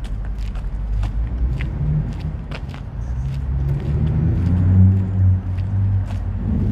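A car passes, its engine and tyre noise building to a peak about five seconds in, over footsteps crunching on icy snow at about two steps a second.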